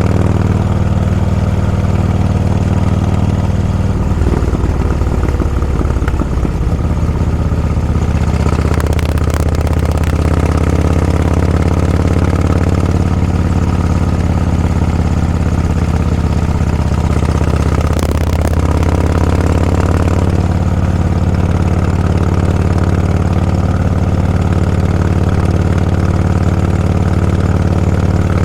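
Motorcycle engine running at low, steady revs, its note holding nearly constant, with brief changes about four to six seconds in and again around eighteen seconds.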